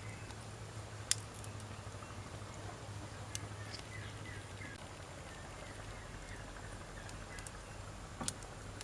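Wood fire crackling, with a few sharp pops, the loudest about a second in and near the end, over a steady low hum.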